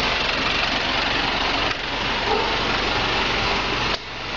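Vehicle engine idling steadily under a constant hiss; the level drops suddenly about four seconds in.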